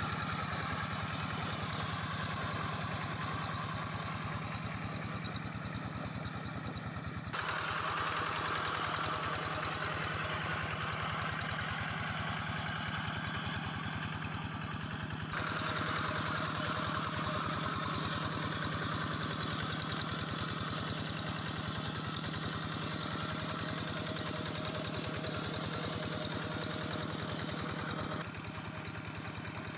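Quick G3000 SEVA hand tractor's engine running steadily with an even rhythmic beat. Its tone and loudness change abruptly three times.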